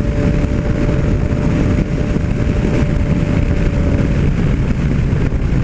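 Yamaha MT-09 Tracer's three-cylinder engine pulling steadily at highway cruising speed, around 125 km/h, mixed with wind rush on the helmet-mounted microphone.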